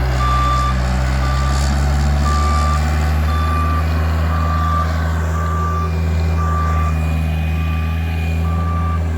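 Bobcat loader backing up: its reversing alarm beeps steadily, about once a second, over the steady low drone of its engine.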